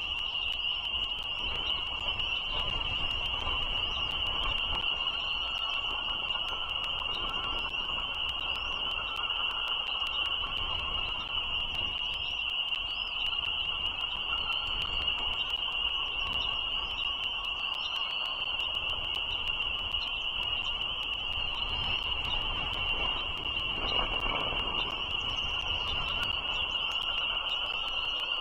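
A frog chorus keeps up a steady high-pitched trill, with a low rumble like distant road traffic underneath and scattered small chirps of birds over it.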